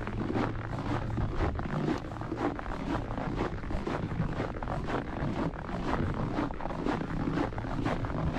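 Waterfall rushing steadily, with many short, irregular crackles over the rush.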